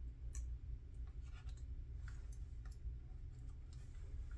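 Faint, irregular small clicks and ticks from handling a plastic scale model and small tools while working foil onto it, over a low steady hum.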